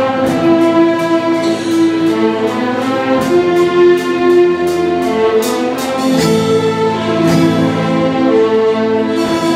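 Instrumental interlude of a musical-theatre song: orchestral accompaniment with held string- and brass-like chords over a steady beat of light percussion, about two beats a second.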